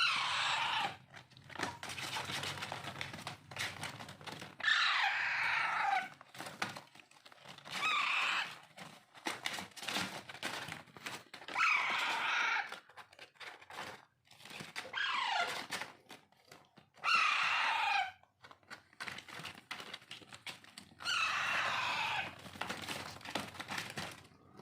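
Alexandrine parakeet chicks giving harsh, downward-gliding begging screeches during hand-feeding, about seven calls of roughly a second each, with quick clicking and rustling between them.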